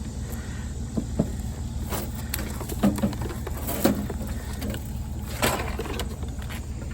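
A vehicle engine idling steadily, with a few sharp clicks and knocks of cord being cut and scrap being handled.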